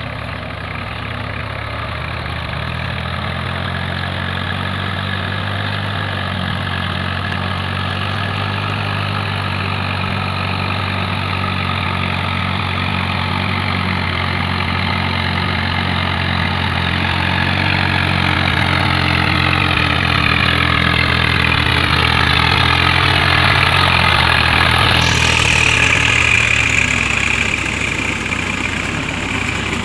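Diesel farm tractor engine running steadily as it works through mud, growing gradually louder. In the later part a whine rises in pitch, and about 25 seconds in the sound abruptly turns hissier.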